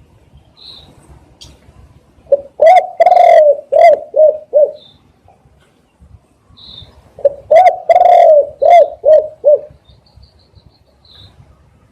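Spotted dove cooing: two phrases about five seconds apart, each a run of short coos around one longer note. Faint high chirps from another small bird come between the phrases.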